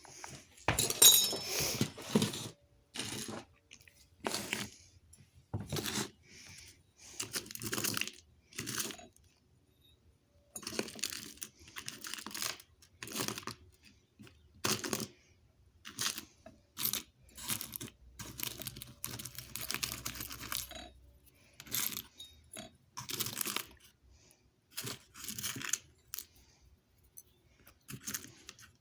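Rustling and crinkling handling noise in irregular short bursts, about one every second or two, with quiet gaps between.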